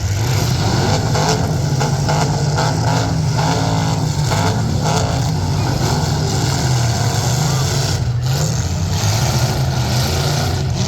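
Demolition derby trucks with their engines running loud and revving, with several sharp bangs, mostly in the first half.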